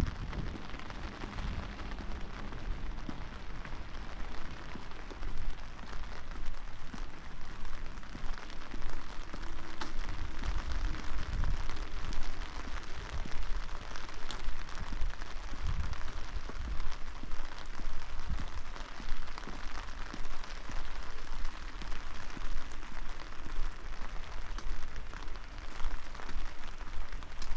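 Steady rain falling and pattering on surfaces, an even hiss, with a few brief low rumbles partway through.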